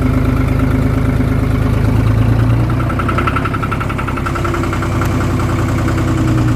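John Deere 5205 tractor's three-cylinder diesel running just after a cold start in freezing weather. Its speed rises a little a couple of seconds in and settles back near the end.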